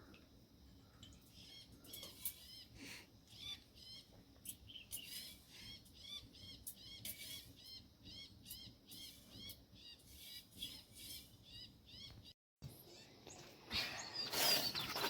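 A small bird chirping over and over, short high chirps about twice a second, cutting off suddenly about twelve seconds in. A louder, noisy sound starts near the end.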